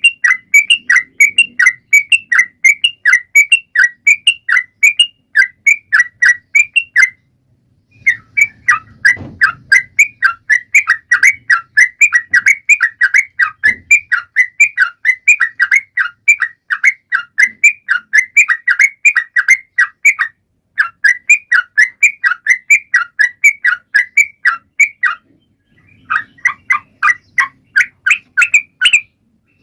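A trucukan (yellow-vented bulbul) singing hard, a rapid run of repeated chirping notes at about four a second. It pauses briefly three times.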